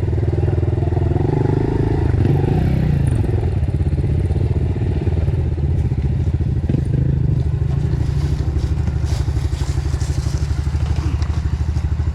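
Dirt bike engine running steadily on a trail ride, its pitch shifting briefly about two to three seconds in, with light clatter over the top.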